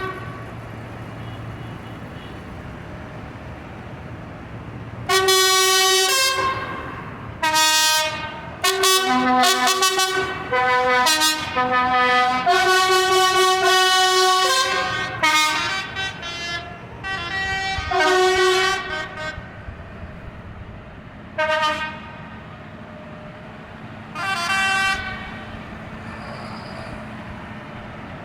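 Tractor horns honking in a long string of blasts at several different pitches, some overlapping, starting about five seconds in and dying out near the end, over the low hum of running engines.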